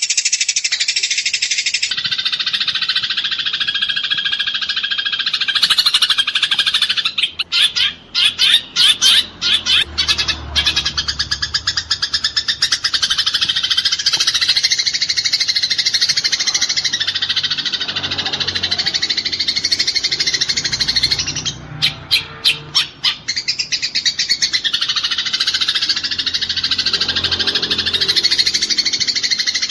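Eurasian tree sparrows (burung gereja) giving dense, rapid chattering calls in fast volleys, the agitated chatter of sparrows fighting. The chatter breaks into separate quick notes twice, about a third of the way in and again past the middle.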